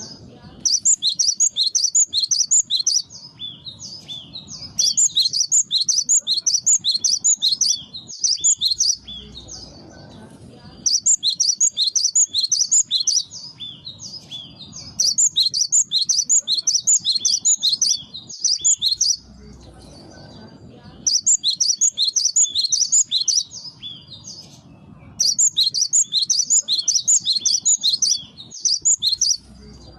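Cinereous tit (gelatik batu) song used as a bird-trapping lure: bursts of rapid, high, repeated notes lasting a few seconds each, returning again and again after short pauses.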